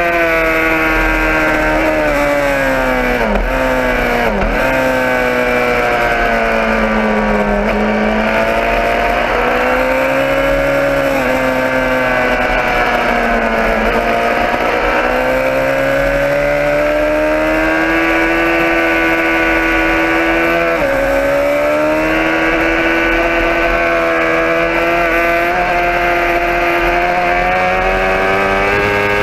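Motorcycle engine running under way, its pitch rising and falling with the throttle. There are brief sharp dips in pitch about three and four seconds in and again near twenty-one seconds.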